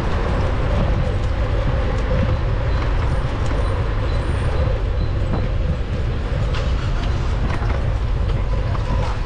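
Steady wind buffeting on a GoPro's microphone while riding a bicycle, a loud low rumble, mixed with road and traffic noise.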